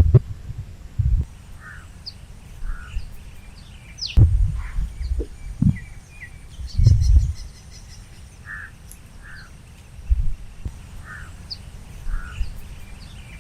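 Birds calling: short calls coming in pairs every few seconds, over scattered higher chirps. Low rumbling thumps come and go and are the loudest sounds.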